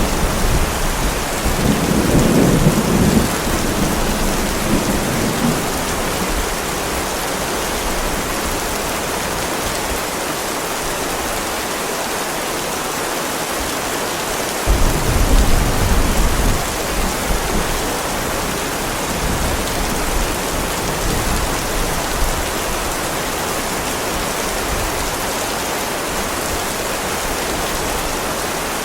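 Heavy rain falling steadily on pavement, with two low rolls of thunder, one a couple of seconds in and a stronger one starting suddenly about halfway through and dying away over a few seconds.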